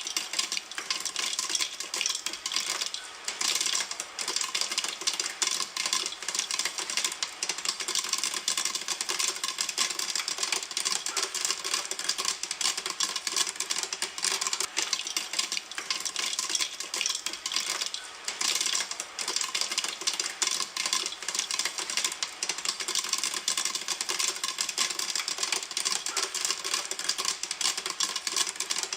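Popcorn kernels popping in a pan: a dense, continuous crackle of many quick pops at a steady rate.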